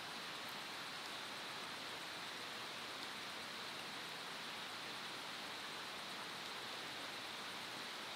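Faint steady hiss with no distinct events, like wind, water or recording hiss.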